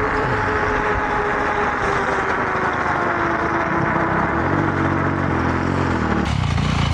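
Wind and ride noise from riding an electric bike, with the motor's thin whine slowly falling in pitch. About four seconds in, a four-stroke dirt bike engine (a Honda CRF450R) joins with a low, slightly falling note.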